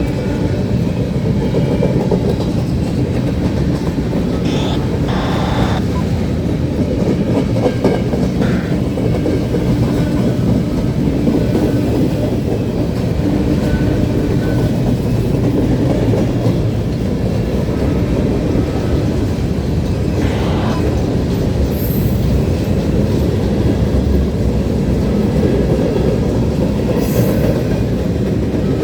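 Freight train cars rolling past at speed, with a steady heavy rumble and the clatter of wheels over the rails. A few brief high squeals come from the wheels now and then.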